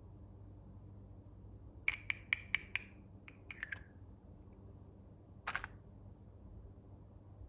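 Hands handling a toy and its packaging: a quick run of about five sharp clicks, a few softer clicks, then a short scrape a little past the middle.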